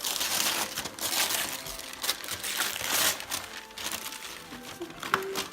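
Wrapping paper crinkling and rustling in repeated bursts as a present is unwrapped.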